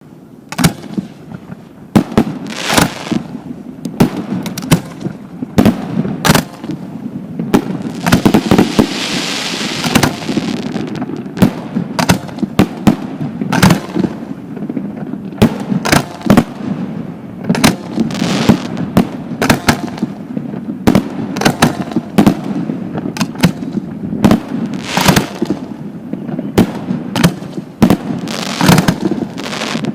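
Fireworks display: a long run of sharp bangs from bursting shells, often several a second, over a continuous low rumble. A stretch of dense hissing crackle comes about eight seconds in.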